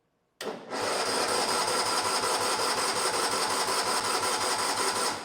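Tecumseh 12 hp single-cylinder engine of a Massey Ferguson MF-12 garden tractor being cranked by its electric starter with an even, rhythmic chug and whirr, turning over without firing. It starts abruptly just under half a second in and winds down at the end.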